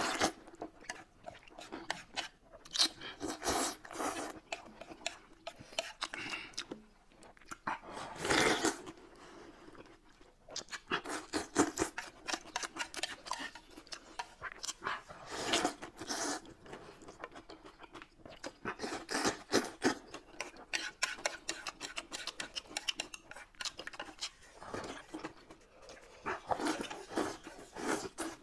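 Close-up eating sounds: noodles slurped from a plate of broth and food chewed with wet, smacking clicks, with long loud slurps about eight and fifteen seconds in.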